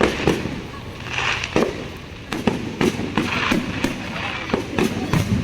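Fireworks going off: about ten sharp bangs in quick, irregular succession.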